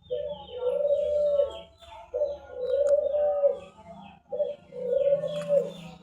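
A bird giving long, low cooing notes, each about a second long and dipping at the end, repeated about every two seconds. Many short, higher chirps from small birds run underneath.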